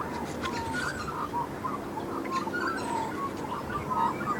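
Australian magpies warbling: a continuous run of short, varied, gliding notes.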